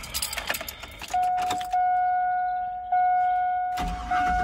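Truck keys jingling and clicking into the ignition, then the 2000 Chevy Silverado's dashboard warning chime dinging steadily about once a second. Near the end the starter cranks and the engine begins to catch; the new fuel filter has let fuel reach the engine.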